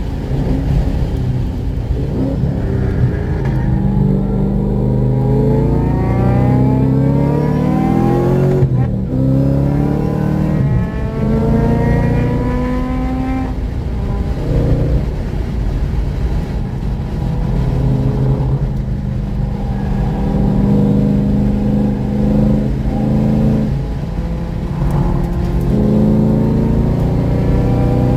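A forced-induction track car's engine, heard from inside the cabin at speed, rising in pitch under acceleration. It breaks off briefly about nine seconds in as it shifts, climbs again, holds steadier mid-way, then rises once more near the end.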